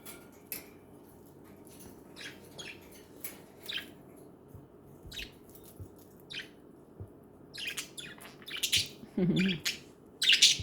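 Pet budgies chirping in short, scattered calls, growing louder and more frequent over the last few seconds.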